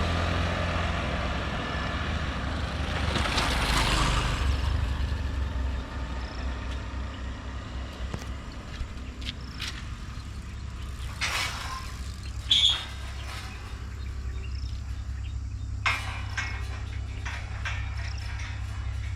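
Heavy vehicle engine running with a steady low rumble, with a rush of passing noise in the first few seconds. A few short sharp knocks or hisses come later, one of them with a brief high tone about two-thirds of the way through.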